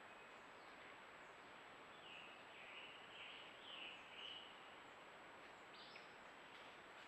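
Faint bird calls, a short run of chirps in the middle, over the steady hiss and thin high electronic whine of a trail camera's microphone.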